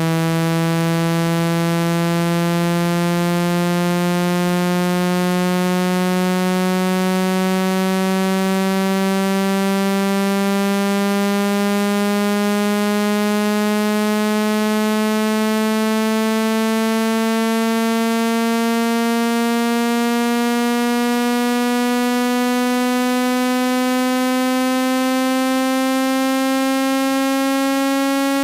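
Synthesized water-ejection tone for phone speakers: a loud, buzzy electronic tone rich in overtones, its low pitch gliding slowly and steadily upward, meant to vibrate water out of the speaker.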